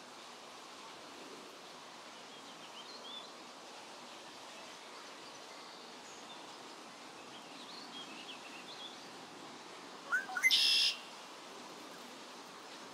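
Faint bird chirps over a steady outdoor hiss, with a short, much louder bird call about ten seconds in.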